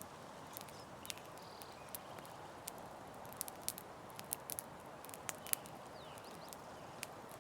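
Campfire crackling: a steady soft hiss with irregular sharp pops and snaps, which come thickest between about three and six seconds in.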